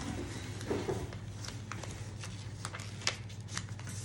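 A sheet of A4 paper being folded and creased by hand: light rustles and small crisp ticks from the paper at scattered moments, over a steady low hum.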